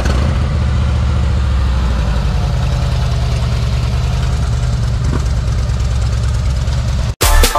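Harley-Davidson V-twin motorcycle engine idling steadily with a low, uneven beat, cutting off abruptly about seven seconds in.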